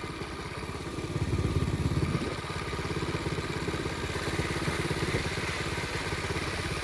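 Flywing pit bike's small engine running while riding, getting louder for about a second, as if revved, shortly after the start, then settling back to a steady run.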